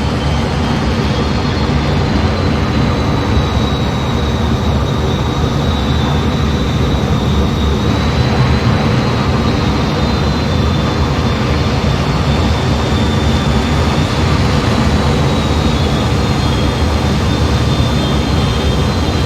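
Jet aircraft in flight, heard from on board: a steady rush of engine and air noise with a low rumble and a thin high whine that holds throughout.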